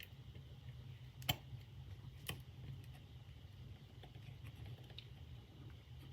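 Small handling clicks and taps while a metal clasp purse frame is worked with glue: two sharp clicks about a second apart, the first the loudest, then a few faint ticks, over a low steady hum.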